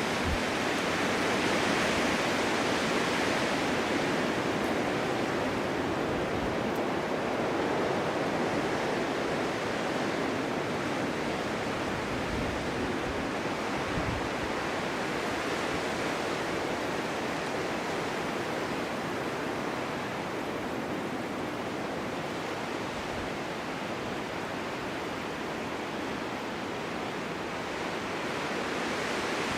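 Steady winter wind blowing, a broad rushing noise that swells and eases gently.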